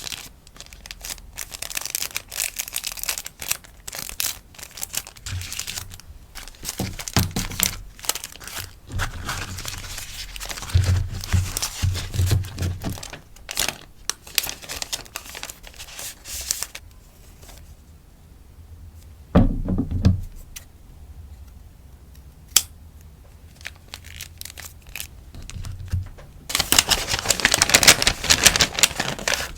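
Sticker packaging rustling and crinkling as an order of stickers is handled and packed, with small taps and clicks throughout. It quietens about two-thirds of the way through, with a single dull thump, then a loud stretch of crinkling near the end.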